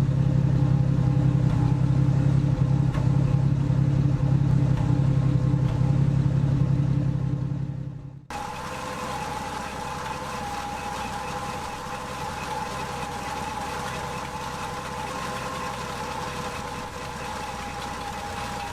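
1978 Ford F-150 pickup's engine idling steadily. A loud low hum for about the first eight seconds dies away, then it runs on more quietly with a steady mid-pitched tone.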